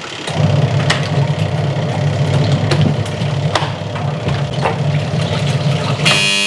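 Washing machine motor running with a steady low hum and irregular knocks from the shoes loaded in its tub. About six seconds in, the machine's buzzer starts sounding, signalling the end of the wash cycle.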